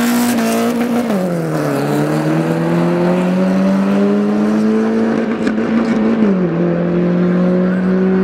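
Peugeot 205 GTi and BMW 320i accelerating flat out down a drag strip, the engine note held high and dropping sharply at upshifts about a second in and again a little after six seconds in.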